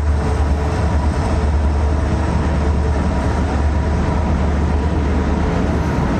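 Goods train running with a loud, steady rumble.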